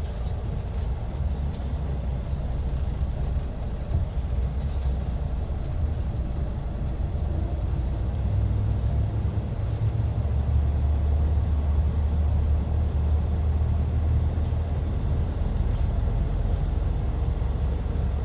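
Hyundai Universe Comfort coach's D6CC Powertec 380 diesel engine running with a steady low rumble that grows louder about ten seconds in.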